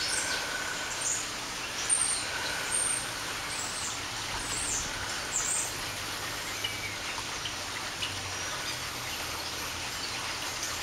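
Small birds chirping in the background: many short, high notes that slide downward, most of them in the first half, over a steady hiss.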